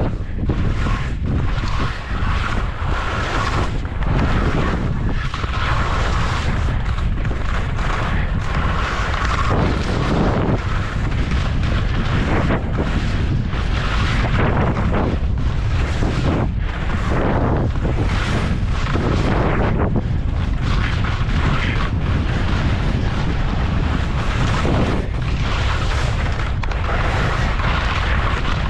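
Wind buffeting the microphone during a ski descent, a steady low rumble, with the hiss of skis on powder snow that swells and fades irregularly through the turns.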